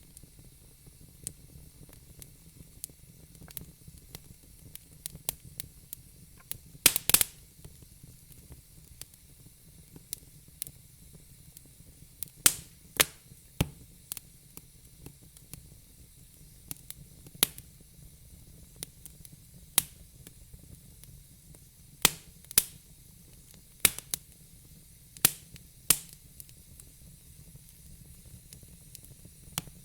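Wood burning in a fire pit, crackling with sharp, irregular pops over a faint steady hiss. The loudest pops come in a quick cluster about seven seconds in, with more scattered through the second half.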